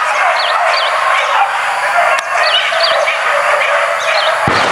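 Bird chirping in pairs of short, high, falling notes, repeated every second or two, over a loud, steady rushing noise.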